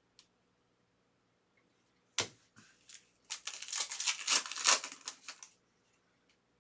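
A foil trading card pack being handled and torn open: one sharp snap about two seconds in, then a couple of seconds of crinkling and rustling wrapper.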